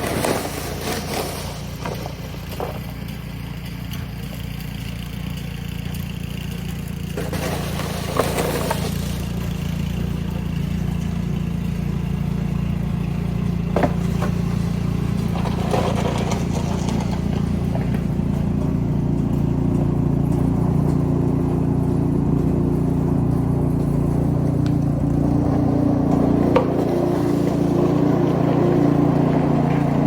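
An engine running steadily and slowly growing louder, with a few short shovel scrapes on snow, the loudest about eight seconds in.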